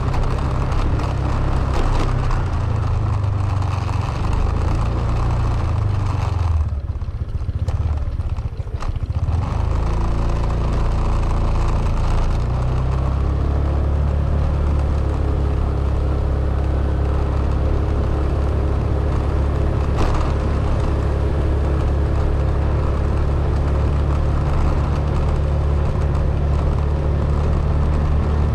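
Car engine running while the vehicle drives, with a low steady hum. The engine note shifts in steps during the first few seconds, drops off briefly around seven to nine seconds in, then settles into an even drone.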